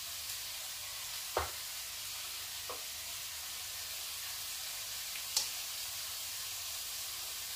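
Chillies, tomato, garlic and shallots sizzling steadily in oil in a wok over a gas flame, a high even hiss. Three short knocks cut through it, the loudest about five seconds in.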